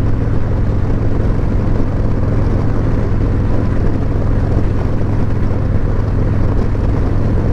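Harley-Davidson Road Glide Special's Milwaukee-Eight V-twin, fitted with S&S slip-on mufflers, running steadily at an even cruising speed.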